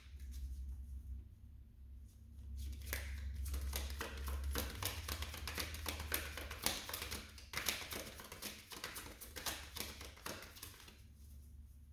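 Tarot cards being shuffled and handled by hand: a rapid run of card clicks and slaps from about two and a half seconds in until near the end, over a low steady hum.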